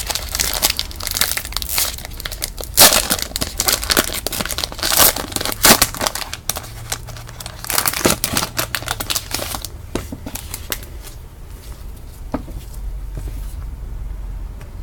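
Plastic wrapper of a football card pack crinkling and tearing as it is opened. The crackling is dense for about the first ten seconds, then quiets to a few light rustles as the cards come out.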